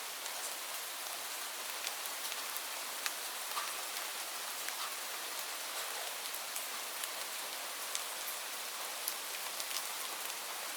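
Steady rain falling, an even hiss dotted with many separate drop ticks and patters.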